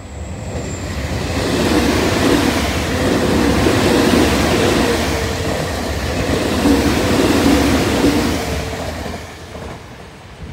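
Electric train running past on the rails: a rumble of wheels on track that builds over the first two seconds, holds with a steady hum, and fades away near the end.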